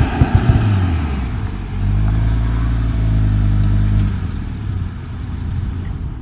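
Audi TT RS turbocharged five-cylinder engine, ABT-tuned, with a few sharp exhaust pops at the start. It then holds steady revs for about two seconds before easing off.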